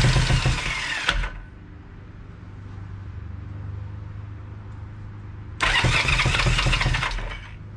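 Electric starter cranking the 1973 Honda CB350's parallel-twin engine in two bursts of about a second and a half, one at the start and one about five and a half seconds in, without the engine catching. A steady low hum lies between the bursts.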